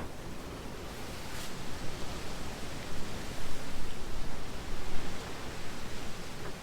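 Wind gusting and buffeting the microphone: a rushing noise, heaviest in the low end, that grows stronger over the first few seconds and then rises and falls in gusts.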